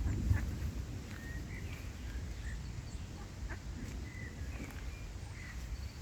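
Birds calling with a scattering of short, high chirps, over a low rumble that fades in the first second.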